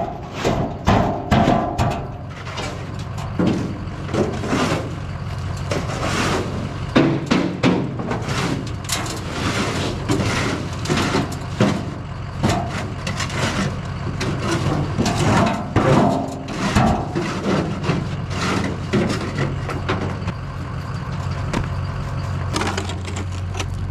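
Truck engine running steadily under irregular scraping and knocking as leftover sand is spread over an icy patch of road.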